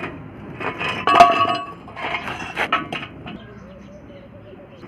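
Metallic clinking and clattering in two short bursts, with one sharp ringing clink about a second in.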